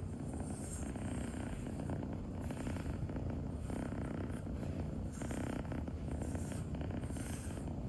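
Domestic cat purring steadily close to the microphone, swelling and easing about once a second with its breathing.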